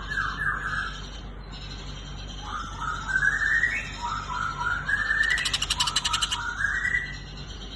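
Cucak ijo (green leafbird) giving its threat call: a run of short, rising whistled notes, broken about five seconds in by a rapid buzzy rattle lasting just over a second.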